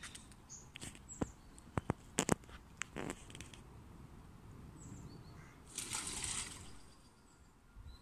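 A few short, high bird chirps over quiet outdoor ambience, with several sharp clicks and knocks in the first three seconds and a brief rustling burst a little past the middle.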